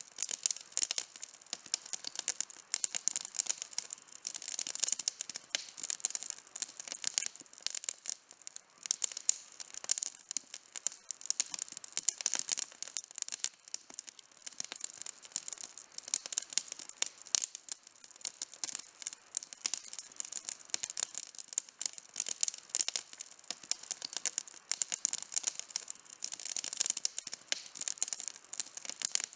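Wood campfire burning with dense, irregular crackling and snapping.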